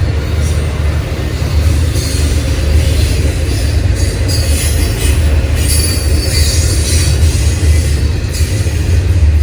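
A train rolling past close by: a heavy, steady rumble of wheels on rail, with high wheel squeal coming and going around the middle.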